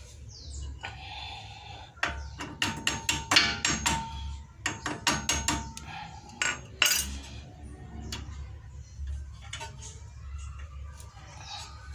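Metal tools and steel brake fittings tapping and clinking against the front brake caliper of a VW Gol while a new brake repair kit's pins and clips are worked into place: a quick run of sharp metallic taps, some ringing briefly, between about two and seven seconds in.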